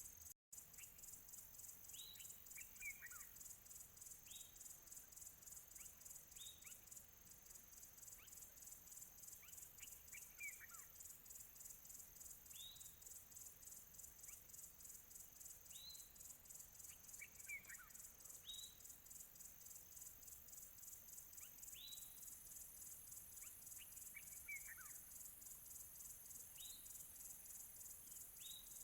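Crickets chirping in a fast, steady pulse, faint, with a bird giving short calls every two or three seconds, some of them falling in pitch. The sound drops out briefly about half a second in.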